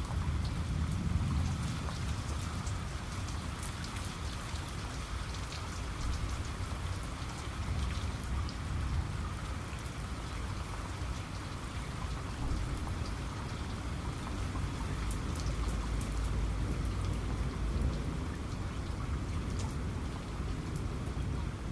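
Steady rain falling, with scattered sharp drop ticks over it and a low rumble underneath.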